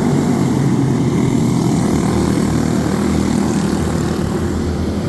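A loud, steady low rumbling noise with no distinct events in it.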